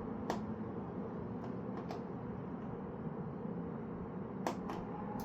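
A handful of light, sharp clicks and taps from bicycle parts being handled and fitted, scattered over a steady background hiss.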